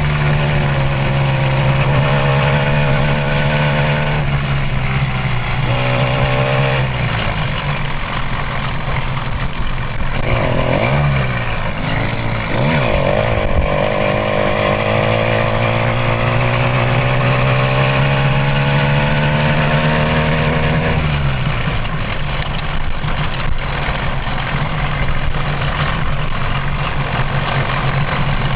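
A 66cc two-stroke motorized bicycle engine running on the trail. Its revs hold steady for several seconds, drop about seven seconds in, rise and fall briefly, hold steady again, then drop off again a little past the two-thirds mark.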